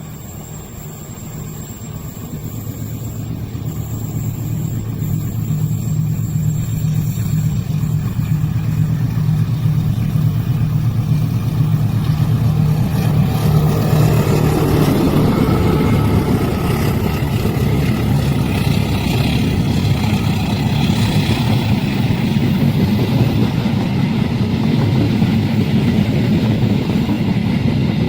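A train approaching and passing: a low engine hum grows steadily louder over the first dozen or so seconds, then gives way to a loud, continuous rushing and rolling noise as the train goes by.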